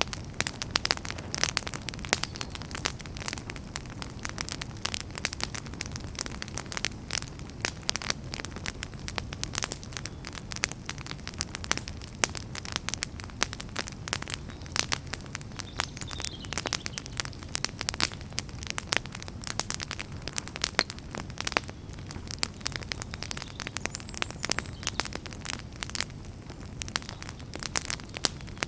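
Wood fire burning steadily: dense, irregular crackles and pops from burning firewood over a low, steady rumble of the flames.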